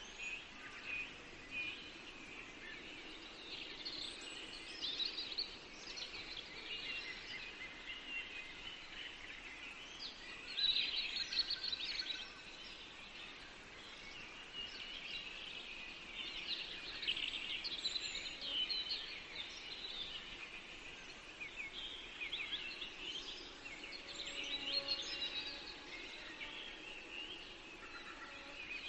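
Several songbirds singing and calling at once in a forest, a dense overlapping chorus of quick chirps and trills, busiest about ten seconds in.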